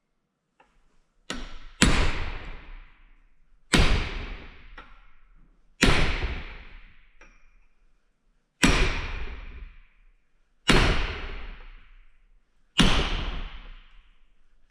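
Hammer blows on metal, driving the seized bearings out of an idler pulley: a light tap, then six hard strikes about two seconds apart, each ringing briefly. The bearings have locked up and burned.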